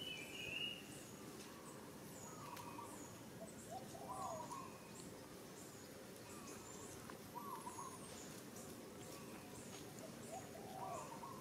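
Birds calling outdoors: a short hooting call repeated about every three seconds, with faint thin high chirps over a soft background hiss.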